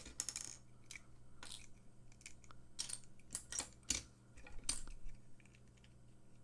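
Small clicks and light plastic rattles of a die-cast toy car being handled, clustered in the first second and again from about three to five seconds in, then dying away.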